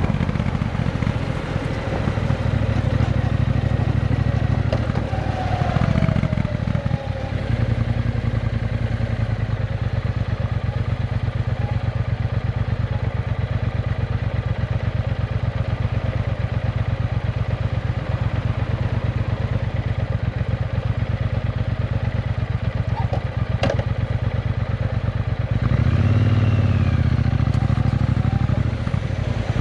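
Triumph Bonneville T120's parallel-twin engine running steadily through an aftermarket Vance & Hines exhaust with X-pipes, getting louder briefly about 26 seconds in.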